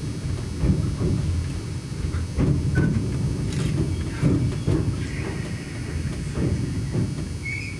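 Nagano Electric Railway limited express train running at low speed, with a low rumble and irregular knocking from the running gear. Brief high squeals come in from about five seconds in.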